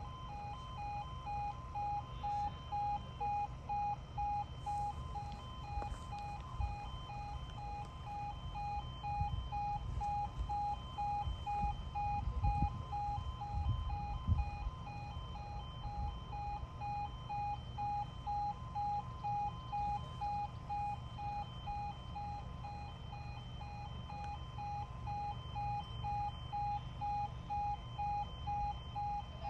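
Level crossing warning alarm sounding a steady, evenly pulsing electronic tone while the barriers are down for an approaching train, with a low rumble beneath it.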